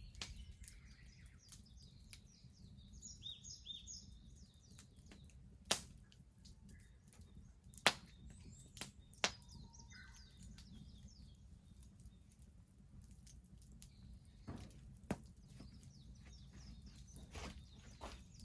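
Wood fire crackling, with scattered sharp pops (three louder ones about 6, 8 and 9 seconds in) over a low steady rumble. Small birds chirp in the background, most clearly in the first few seconds.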